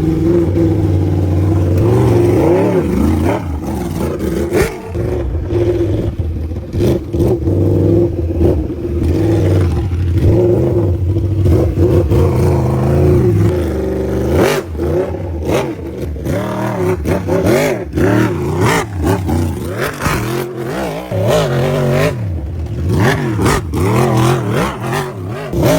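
Trail motorcycle engines revving hard, again and again, pitch rising and falling as the bikes are pushed over rough ground, with scattered knocks and clatter.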